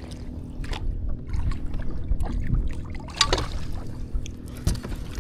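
Water splashing and sharp knocks around a kayak while a hooked small bass is reeled in, over a low steady rumble, with a cluster of splashy sounds a little past halfway.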